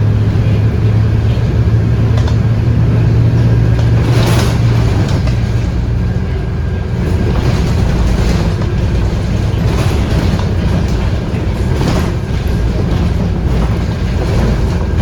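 Interior sound of a Scania K230UB bus under way, its 8.9-litre five-cylinder Scania DC9 diesel giving a strong steady low drone for the first few seconds that then fades into road and cabin noise. Several brief rattles from the body come through later on.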